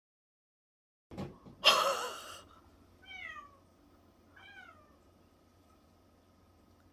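A cat meowing: one loud meow about a second and a half in, then two shorter meows that fall in pitch.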